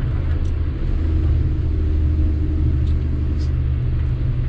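Sany 6x4 dump truck's diesel engine running with a steady low drone.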